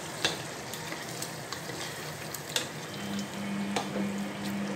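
Chicken pieces sizzling in hot oil in a pot while being stirred with a plastic ladle, with a few sharp knocks of the ladle against the pot.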